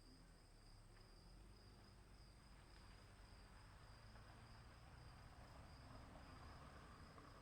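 Faint forest ambience: insects trilling steadily in two continuous high tones over a low rumble.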